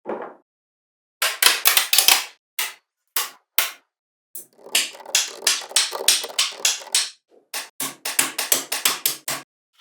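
A rapid series of sharp clicks and knocks in clusters, with dead silence between them.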